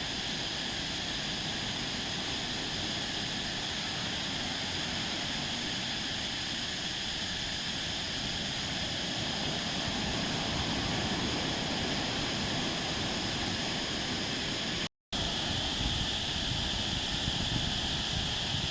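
Surf washing onto a sandy beach, a steady roar of waves with no pauses, swelling slightly partway through; the sound cuts out for a split second near the end.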